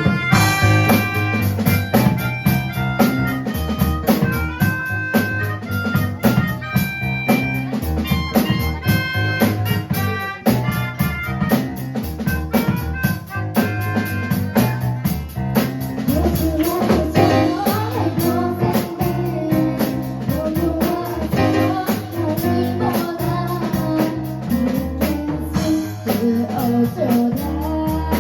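Live band music on drum kit and keyboard, with a voice singing over it from about halfway in.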